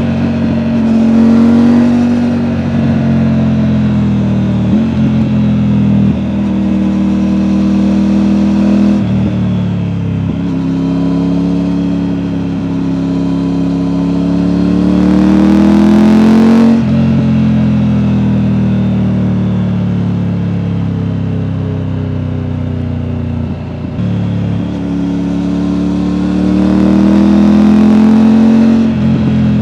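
Triumph Tiger 900's 888 cc inline three-cylinder engine through an Akrapovic exhaust, pulling under load. The pitch climbs slowly and then falls or jumps abruptly several times as the gears change, with the biggest drop about two thirds of the way through.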